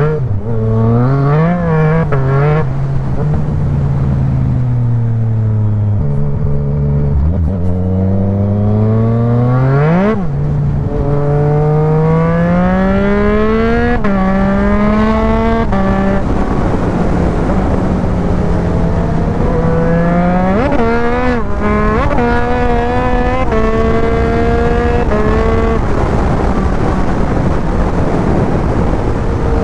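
Sport motorcycle engine pulling hard through the gears. Its pitch climbs under throttle and drops sharply at each upshift, several times over, with wind rushing past.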